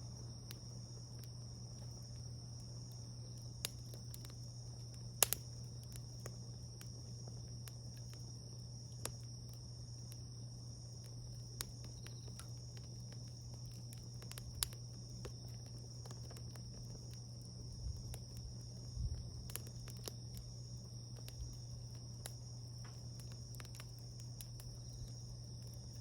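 Insects trilling steadily under a wood fire that gives off sparse sharp pops and crackles, the loudest pop about five seconds in, over a steady low hum.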